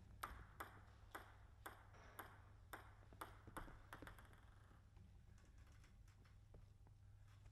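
Celluloid-type plastic table tennis ball clicking against bat and table, about two sharp hits a second for roughly four seconds, then stopping.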